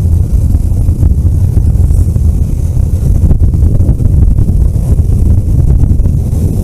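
Vehicle on the move along a road: a loud, steady low rumble with wind buffeting the microphone.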